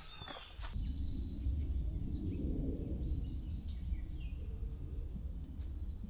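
Footsteps crunching on a trail that stop within the first second, followed by a steady low rumble. Small birds chirp now and then above it.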